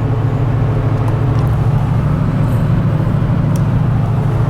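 Steady low drone of road and engine noise inside a moving vehicle's cabin.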